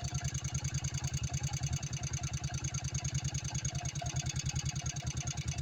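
A vehicle engine idling steadily, with an even, rapid low pulse of about a dozen beats a second.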